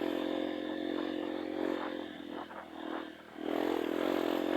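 Trail motorcycle engine running steadily, easing off about three seconds in, then opening up louder again.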